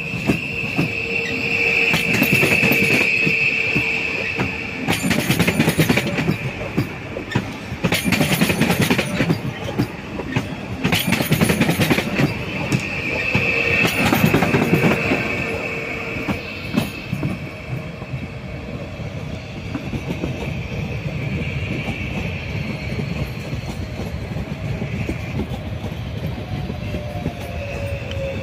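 Railway train rolling on the tracks: its wheels squeal with a high steady screech near the start and again around the middle. In between come several rounds of sharp clicking and clatter as the wheels run over rail joints.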